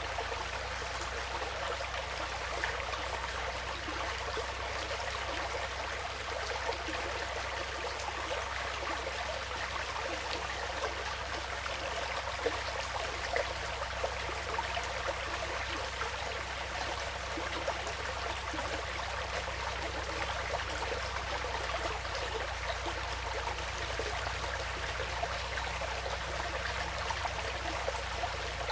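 Woodland stream flowing steadily, a continuous babble and trickle of water.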